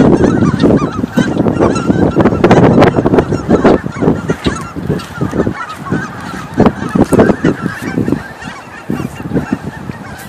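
A flock of geese honking, many calls overlapping at once, thinning out toward the end.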